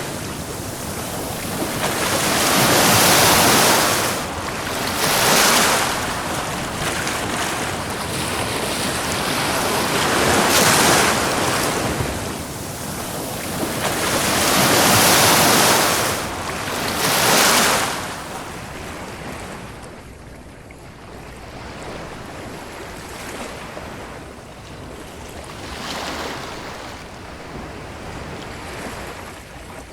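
Ocean surf: waves breaking and washing up the shore in swells every few seconds. The surf eases and grows quieter after about eighteen seconds.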